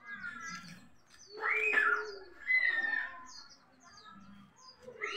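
Birds chirping: short, high chirps repeating throughout, with two louder, lower calls about a second and a half and two and a half seconds in.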